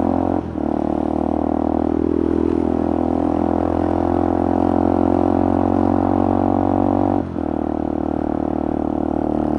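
Motorcycle engine and exhaust running steadily under way, with two brief dips, about half a second in and just after seven seconds.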